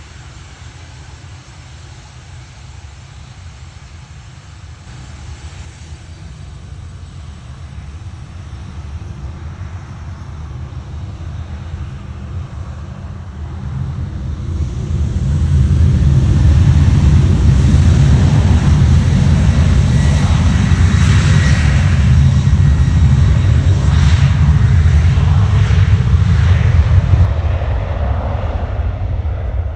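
Boeing 737-800's CFM56 jet engines and airframe during takeoff. The low rumble builds steadily for about fifteen seconds to a loud, steady level with some rattling, then eases a little near the end.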